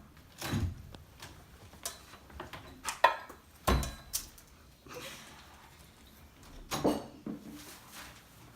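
A scattered series of knocks, clicks and thumps, about half a dozen, the loudest about three seconds in and again just under a second later, with light clattering between them.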